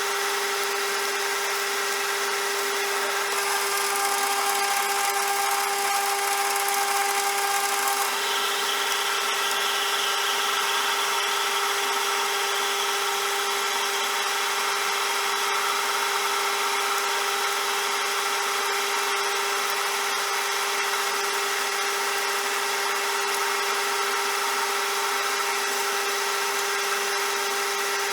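CJM360 metal lathe running steadily with a constant hum. A few seconds in, a higher whine and hiss join for about four seconds, then drop away.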